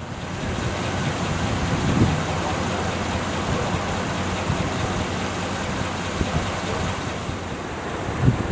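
Road traffic: vehicles passing steadily, their engines and tyres making a continuous noise, with a couple of brief low thumps.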